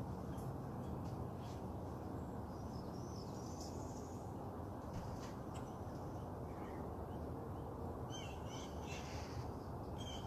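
Wild birds calling and chirping in short bursts over a steady low background noise, with a livelier run of calls about eight seconds in.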